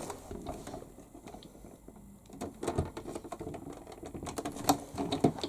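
Plastic parts of a toy washing machine's casing being pushed and jiggled together: scattered small clicks and knocks, busier in the second half, as the part is worked to latch into place.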